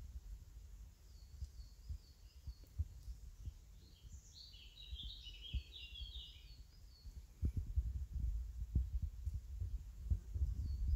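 Woodland birdsong: a series of repeated high chirps, a louder warbled phrase about four seconds in, and more chirps near the end. Under it, low rumbling thumps on the microphone, heavier in the second half.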